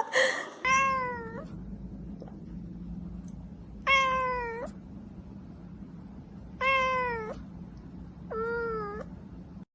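A cat meowing four times, each meow a drawn-out call of under a second that dips and rises at the end, over a steady low hum.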